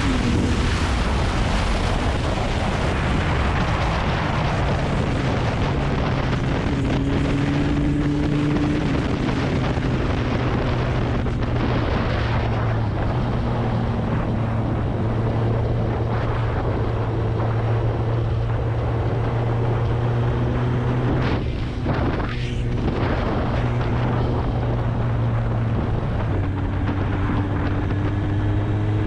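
Kawasaki Ninja ZX-9R's inline-four engine running under way, its note shifting gently up and down, with wind rush on the microphone. The engine note dips briefly about three quarters of the way through.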